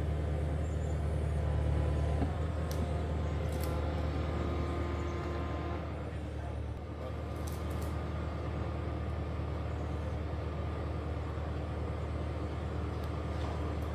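An engine running steadily with a low hum, dipping slightly in level about halfway through, with a few light clinks.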